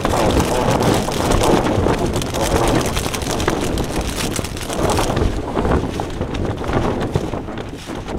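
Gale-force wind gusting hard, buffeting the microphone, with quick crackling flaps like tent fabric shaking in the gusts. The sharp, hissy part of the noise eases about five seconds in.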